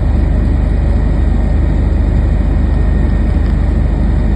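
Steady, loud engine rumble with a constant low hum, unchanging throughout.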